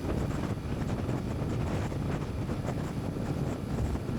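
Yamaha SR125's single-cylinder four-stroke engine running flat out at about 60 mph, mixed with wind noise on the microphone; it is at its top speed and gains no more.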